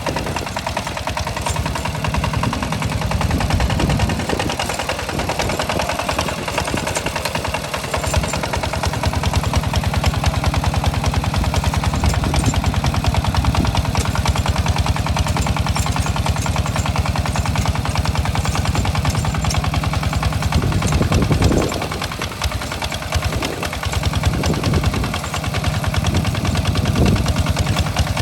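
Walk-behind hand tractor's engine chugging steadily under load while plowing a rice paddy, with rapid, even exhaust beats. It eases briefly about three-quarters of the way through, then picks up again.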